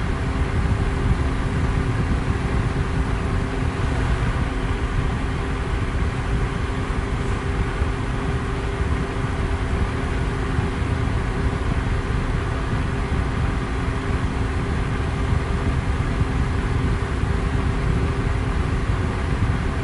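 Electric fan running steadily: an even rush of air, heaviest in the low end, with a faint steady motor hum underneath.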